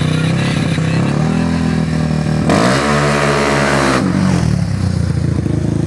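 Drag-racing ATV engine running at a steady idle, then revved sharply for about a second and a half near the middle, its pitch climbing and then falling back to idle.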